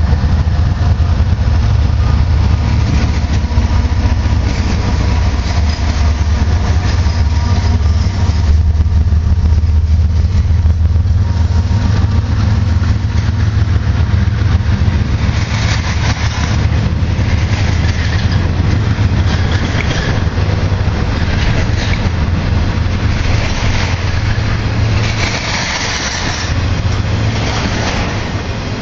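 Freight train passing close by: the diesel locomotives' engines drone loudly and steadily, then the intermodal container and trailer cars roll past with rumbling wheel-on-rail noise that turns harsher from about halfway through. The engine drone fades in the last few seconds.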